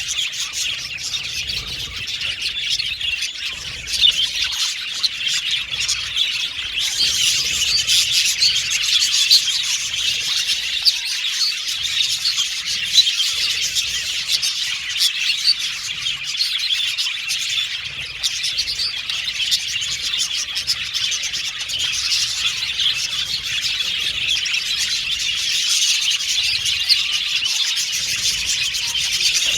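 A flock of budgerigars chirping and warbling continuously, many birds at once in a dense, unbroken chatter.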